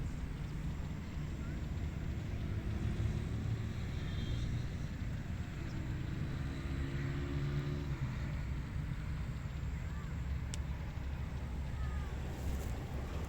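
Wind on the microphone as a steady low rumble, with a faint hum joining for a couple of seconds in the middle.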